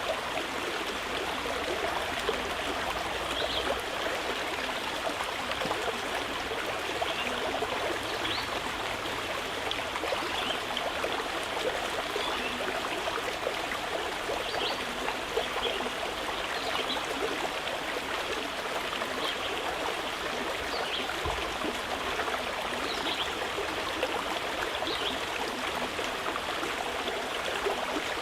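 Mountain river rushing steadily over rocks, with short, faint bird chirps scattered every few seconds.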